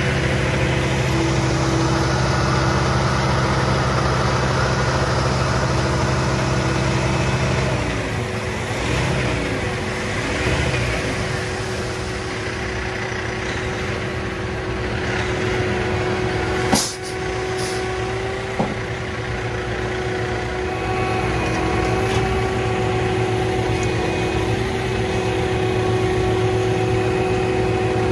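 Diesel engines of heavy asphalt-paving machinery running steadily, the engine note wavering up and down for a few seconds about a third of the way in. A single sharp bang about 17 seconds in, and a smaller knock shortly after.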